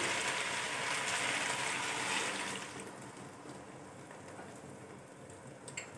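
Chicken and vegetables sizzling in a hot wok while liquid sauces are poured in. The sizzle fades to a quieter hiss about three seconds in as the liquid cools the pan.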